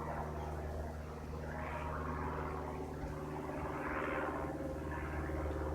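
Single-engine Cessna light aircraft, its propeller engine droning steadily, with a hiss that swells and fades twice.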